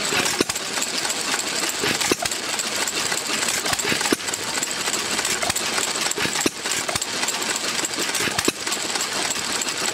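1912 Root and Vandervort stationary engine running: a steady mechanical clatter with a sharper knock roughly every two seconds.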